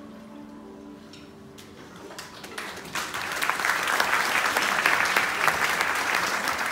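Audience applause: the last notes of plucked-string music die away, then clapping starts about two seconds in and quickly swells to full, steady applause.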